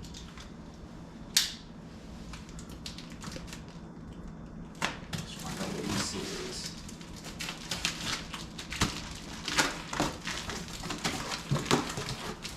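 A package being unwrapped and its contents handled: rustling and crinkling of packaging with many small clicks and crackles, busiest from about five seconds in. There is one sharp click about a second in.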